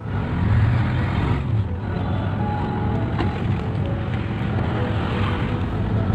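A motor vehicle's engine running steadily with a low hum, amid road traffic noise.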